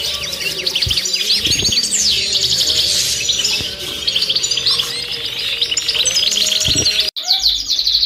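A dense chorus of small cage birds chirping and twittering, with quick high chirps overlapping one another and faint music underneath. The sound drops out for an instant about seven seconds in, then the chirping carries on.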